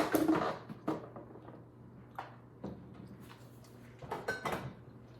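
Kitchen clatter of items being handled on a counter: a loud rattling burst at the start, a few single knocks, and another rattling burst about four seconds in.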